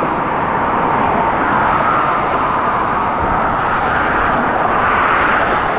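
Motorcycle riding at speed: a steady rush of wind over the microphone with the engine note underneath, its pitch climbing slightly.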